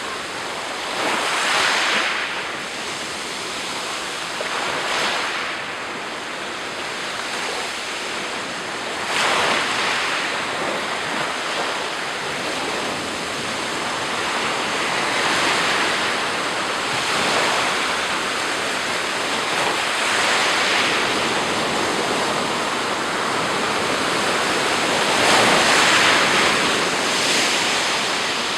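Sea surf breaking on the shore, waves washing in one after another every few seconds over a steady hiss of water, with some wind on the microphone.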